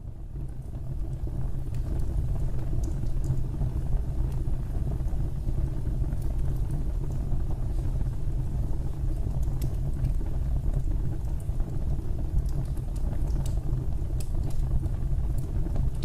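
Fireplace fire burning: a steady low roar with scattered sharp crackles and pops, fading in over the first couple of seconds.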